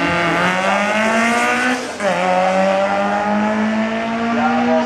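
Rally car engine accelerating hard, its pitch climbing through one gear, dropping with an upshift about two seconds in, then climbing again through the next gear.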